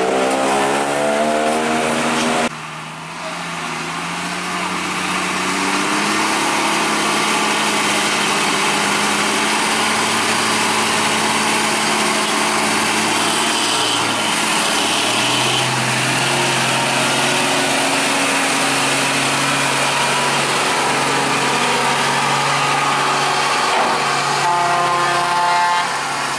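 A heavy truck's engine running under load. Its pitch falls over the first two seconds, then it breaks off suddenly into a steady engine drone, which rises in pitch near the end.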